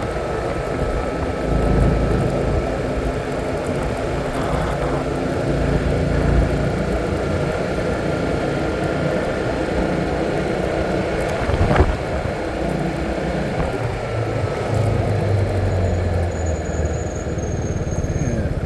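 Vehicle engine running while under way, with road and wind noise; the engine note shifts a few times. There is a single sharp knock about two thirds of the way through.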